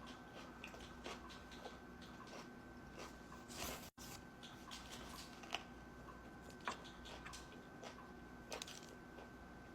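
Faint, irregular chewing with soft wet mouth clicks and crunches of someone eating a sub sandwich, with a brief rustle about three and a half seconds in. A faint steady hum sits underneath.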